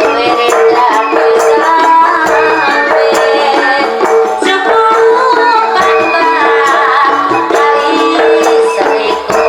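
Live Javanese jaranan ensemble music: percussion strokes under a steady, pulsing held tone, with a wavering melody line over it.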